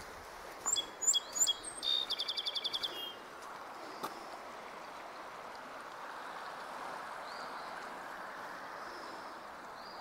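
A songbird sings one phrase: three short sweeping high notes followed by a rapid, even trill, over in about three seconds. A steady rushing of running water continues underneath, with a few faint bird whistles later on.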